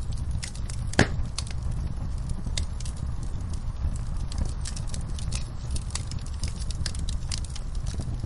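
Fire burning in a fireplace, crackling with frequent sharp pops over a low steady rumble. The loudest pop comes about a second in.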